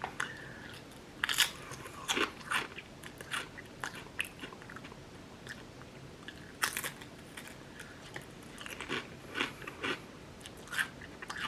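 A person biting into and chewing crisp Estrella Sriracha Mayo potato chips: a string of short, sharp crunches at irregular intervals.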